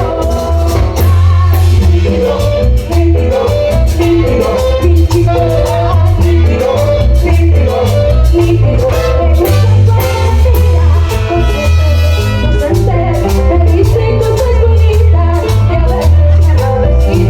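A band playing Latin dance music, with a heavy, steady bass line.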